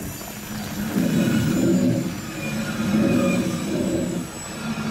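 Rhaetian Railway metre-gauge passenger train's coaches rolling along the track, a low rumble that swells and eases every second or two, with faint high tones from the wheels.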